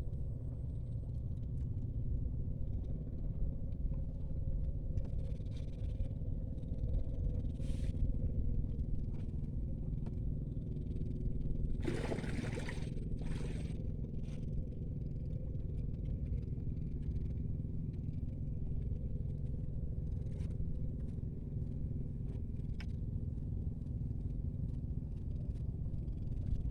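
Steady low rumble with a faint constant hum, broken by scattered small clicks and a short burst of rustling or scraping about twelve seconds in.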